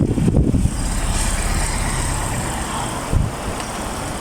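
Suzuki APV engine idling roughly and shaking, with uneven low pulses in the first half-second and a brief thump about three seconds in. The shaking comes from a misfire that the mechanic traces to one dead ignition coil.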